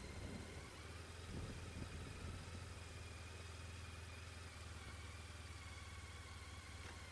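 Honda ST1300 Pan European's V4 engine idling, a faint, steady low hum.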